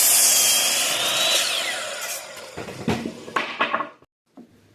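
Power saw cutting a length of lumber for a ramp brace, its high whine falling away as the blade spins down about one and a half seconds in, followed by a few knocks of wood being handled.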